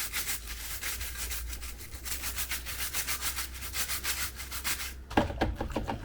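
A brush scrubbing a removed plastic dishwasher filter part in quick back-and-forth strokes, about five a second. A few knocks about five seconds in.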